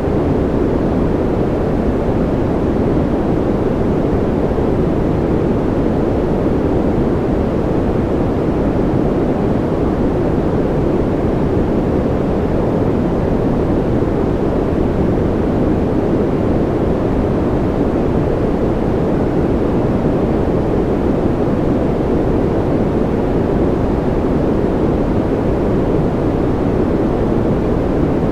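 Steady, unchanging generated noise of the kind sold as white noise for sleep. Most of its energy sits low, so it is a deep, even rush rather than a bright hiss.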